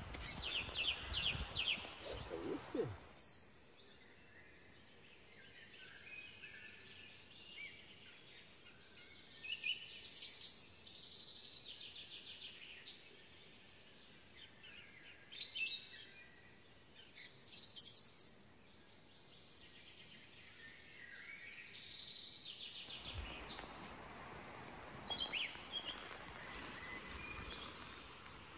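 Small songbirds chirping and trilling in short, scattered calls over a quiet background, with rustling noise in the first three seconds and again for the last five seconds or so.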